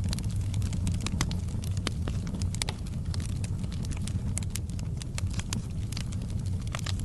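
Fire burning in a fireplace: dense, irregular crackles and pops over a steady low rumble.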